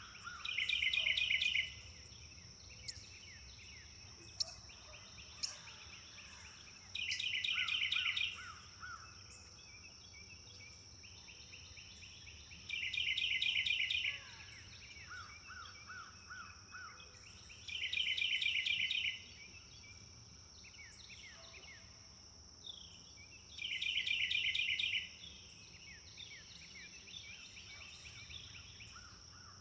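Forest birdsong: one bird repeats a loud phrase of rapid repeated notes, about a second long, five times at intervals of five to six seconds, with softer calls and trills of other birds between. A steady high-pitched insect drone runs underneath.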